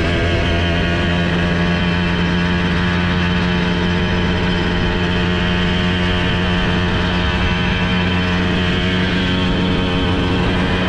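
Simson S51 moped's 85cc two-stroke single-cylinder engine running under way, holding a steady pitch.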